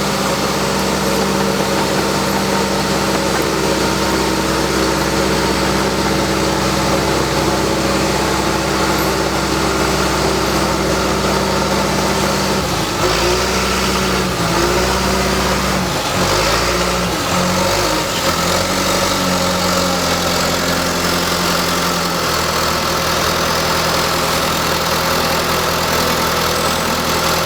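An engine running steadily near idle, its revs rising and falling several times about halfway through before settling back to a steady run.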